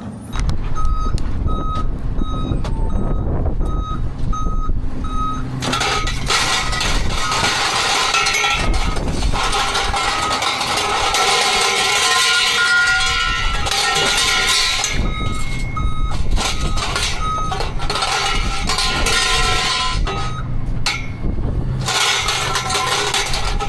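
Garbage truck's reversing alarm beeping at a steady pace, about one and a half beeps a second, over the truck's running engine. In the middle the beeps give way to a loud stretch of dense mechanical noise from the truck, and the beeping comes back later.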